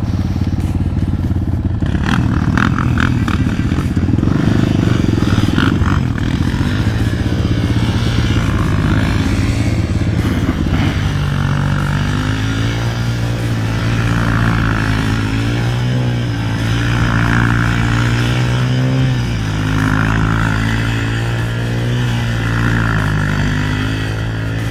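Kayo T2 enduro motorcycle's engine running under way, its pitch rising and falling with the throttle. There is a burst of rattling clatter from about two to six seconds in.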